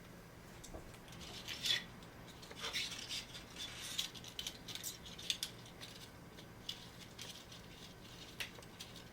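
Small objects being handled: light clicks, rattles and rustling, busiest from about one and a half to five seconds in, then a few scattered clicks.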